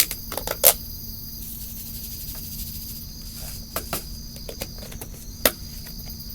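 Crickets trilling steadily at a high pitch, with several sharp taps and clicks as crushed eggshells are spooned into a bucket of potting mix; the loudest clicks come under a second in and again near the end.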